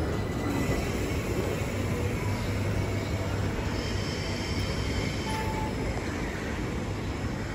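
A train moving along the track, giving a steady rumble with a few faint, brief wheel squeaks.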